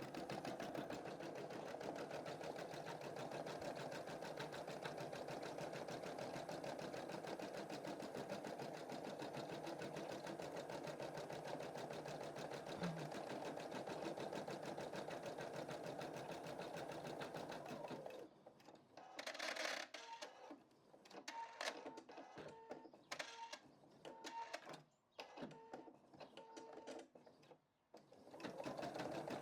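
Computerised embroidery machine stitching a design at a steady, fast rate. About two-thirds of the way in the stitching stops for several seconds of broken, intermittent whirs and clicks, then steady stitching resumes near the end.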